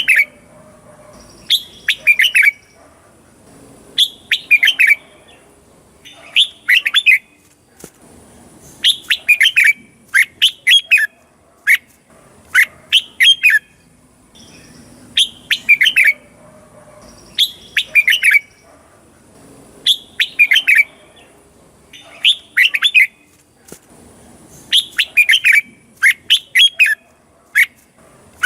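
Red-whiskered bulbul singing: short, loud, chirpy whistled phrases that sweep up and down in pitch, repeated about every two seconds.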